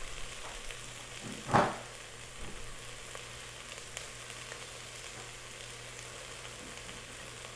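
Onions and diced potatoes sizzling in olive oil in a pot, a steady, faint frying hiss, with one short knock about a second and a half in.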